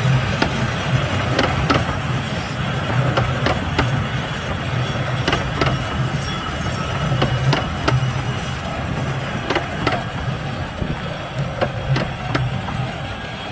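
15-inch-gauge railway passenger coaches rolling past over the points, wheels rumbling with irregular sharp clicks from the rail joints, growing slowly fainter as the train draws away.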